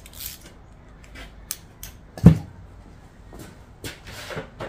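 Metal tools and engine parts being handled on the bench: scattered short clicks and clinks, one loud knock a little over two seconds in, and a brief scraping rustle near the end.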